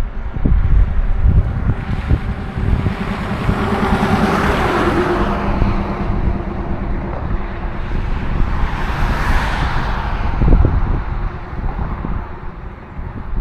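Two vehicles pass one after the other, each a swell of engine and tyre noise that rises and fades, about five seconds apart. Wind buffets the microphone throughout.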